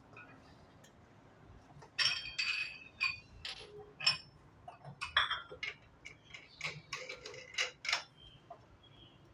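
A run of light clinks and taps of hard objects being handled, with short ringing high notes. It starts about two seconds in and stops about a second before the end.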